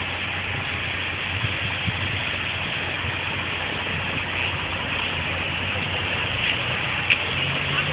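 Fire truck's diesel engine idling, a steady low rumble under a hiss of street noise, with a single sharp click about seven seconds in.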